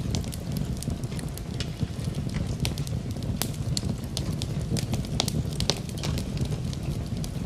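Wood fire in a fireplace crackling, with frequent irregular sharp pops over a low, steady rumble of the flames. A soft hiss of rain is mixed in beneath it.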